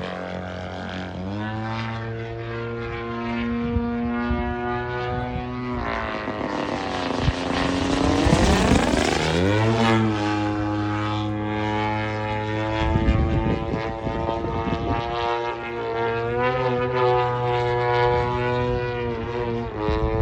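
Radio-controlled model airplane's motor and propeller running steadily in flight, with a close pass near the middle where it grows loudest and its pitch bends down and back up.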